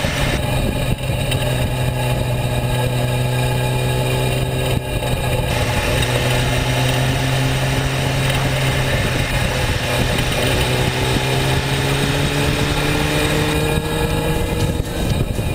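Honda CBR 600 F3's inline-four engine running steadily at road speed, with wind rushing over the microphone. Near the end its pitch climbs gradually as the bike pulls harder.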